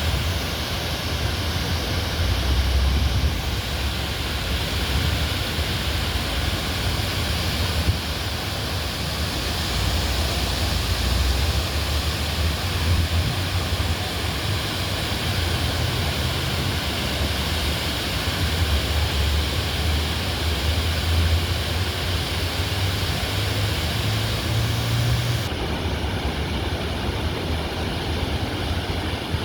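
Steady rushing roar of a river in flash flood, fast, swollen water running high, with a deep uneven rumble underneath.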